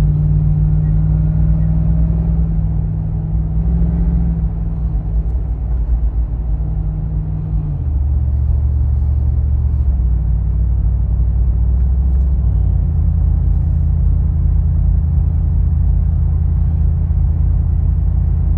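Lexus GX470's 4.7-litre V8 through an aftermarket R4T cat-back exhaust, heard from inside the cabin while driving: a steady low drone. Its pitch drops about eight seconds in and steps up again around ten and twelve seconds in.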